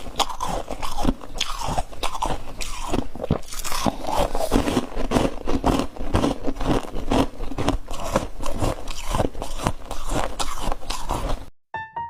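Chunks of ice being bitten and chewed close to the microphone: a dense run of loud, sharp crunches, several a second. The crunching cuts off suddenly near the end, and piano music begins.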